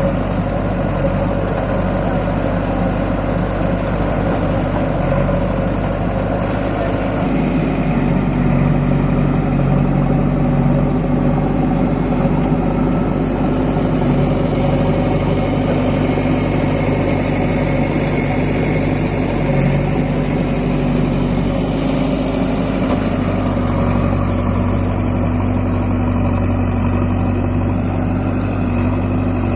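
Diesel tractor engine running steadily under way, its note shifting about a quarter of the way in and again near the end.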